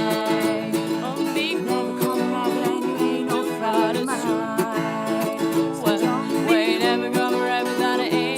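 Instrumental music on plucked string instruments in a ukulele or guitar register: strummed chords with a steady beat and a melody line over them, and no singing.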